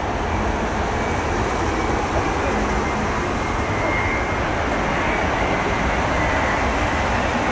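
Jet airliner on approach to land, its engines giving a steady roar that grows slowly louder as it comes closer, with a thin high whine over it.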